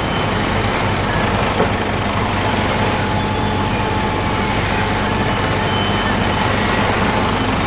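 Heavy road-works machinery at an asphalt paving job, its engines running in a steady low drone.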